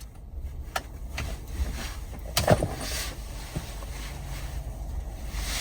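A few clicks and knocks of parts being handled at a car's steering column as the clock spring is unplugged and worked loose, over a low steady rumble. The loudest knock comes about two and a half seconds in.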